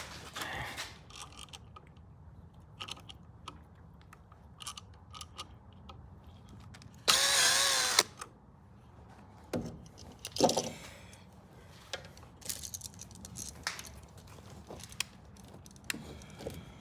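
Small clicks and knocks of handling wires and an electrical outlet, with a power drill running for about a second, roughly seven seconds in.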